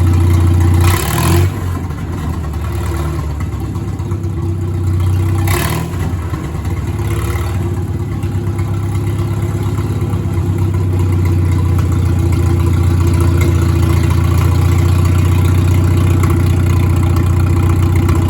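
Tractor engine running steadily at low speed, with two short clatters, one about a second in and one about five and a half seconds in.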